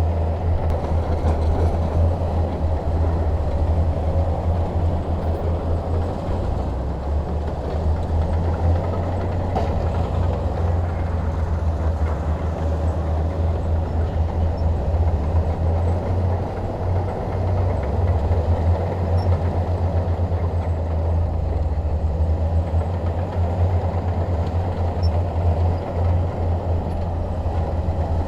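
Crawler bulldozer's diesel engine running steadily, with a constant low hum and a rough, even rumble over it.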